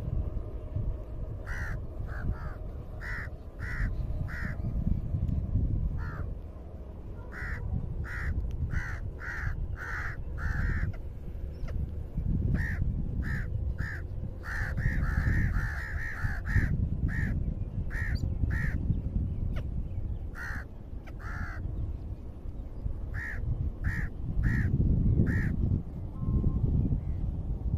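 A bird calling repeatedly, short calls in runs of several at about two a second, over wind rumbling on the microphone.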